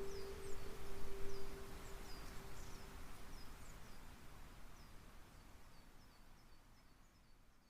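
Small birds chirping over and over in short, high, downward-sliding notes above a soft natural background hiss. A singing bowl's tone rings on and fades away over the first few seconds, and the whole soundscape fades out gradually toward the end.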